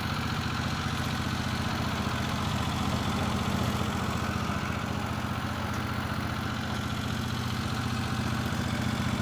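Norwood HD36V2 portable sawmill's gas engine idling steadily between cuts.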